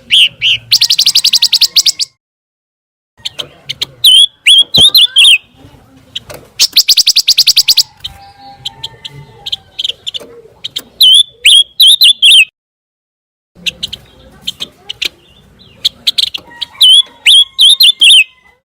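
Recorded song of the pancawarna bird, looped. Phrases of rapid, very high buzzy trills alternate with quick runs of sharp downward-bending chirps, with a new phrase about every six seconds and brief dead-silent gaps between some of them.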